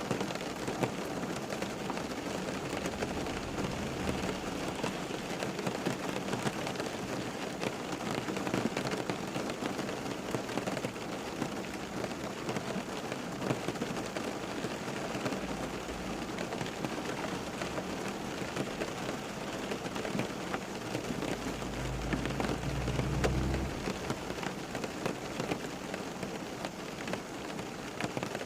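Steady rain falling, a dense, even patter of many drops on a surface. A low rumble swells and fades about three-quarters of the way through, with fainter ones earlier.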